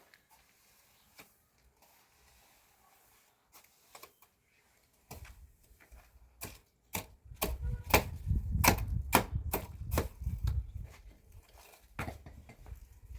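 A rapid, irregular series of sharp knocks, several a second, starting about five seconds in and loudest through the middle, over a low rumble.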